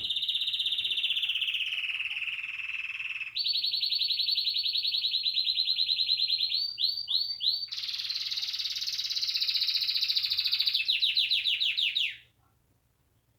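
Domestic canary singing: a chain of rapid rolling trills at different speeds, the first sliding slightly down in pitch, with a few slower swooping notes in the middle. The song stops abruptly about twelve seconds in.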